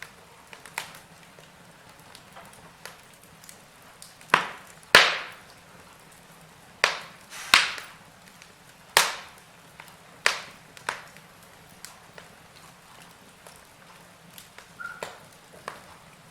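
Wood fire burning in a fireplace: a soft hiss with irregular sharp crackles and pops, the loudest ones coming in a cluster through the middle.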